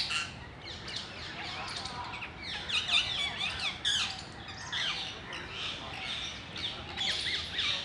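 A flock of parrots calling, a dense run of short, overlapping squawks and chirps, with sharper, louder squawks about three and four seconds in.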